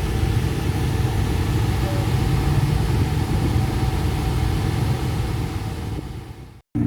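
A car engine running steadily at a low, even speed, with voices faintly in the background; it fades out near the end.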